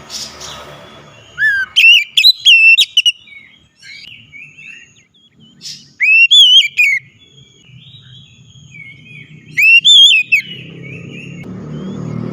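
Oriental magpie-robin (kacer) singing loud, clear whistled phrases that swoop up and down, in three bursts with softer twittering between. A low rumbling noise builds near the end.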